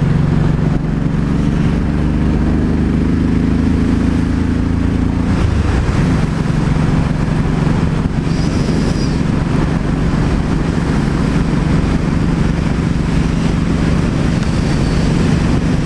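Honda Shadow Sabre VT1100C2's V-twin engine running steadily under way, with wind rushing past. The engine note changes about five seconds in.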